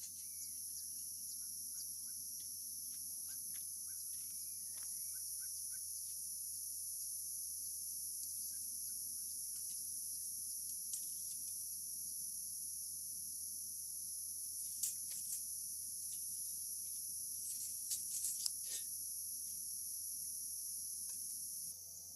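Steady high-pitched insect chorus, like crickets, with faint scattered chirps. A few short sharp sounds stand out over it a little past the middle and again near the end.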